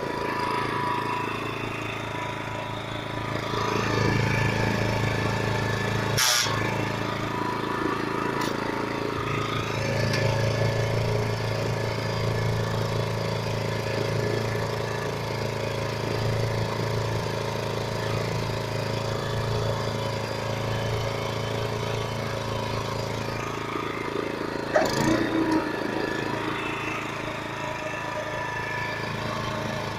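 Small engine of a Baroness LM45GC walk-behind reel lawn mower running steadily, its note getting louder about four seconds in. Two short sharp knocks cut in, one early on and one near the end.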